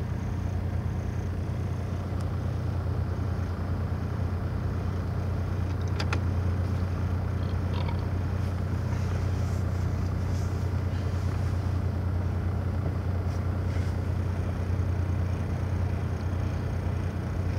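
Off-road vehicle's engine running at a low, steady idle, heard from inside the cab, with a couple of faint clicks about six and eight seconds in.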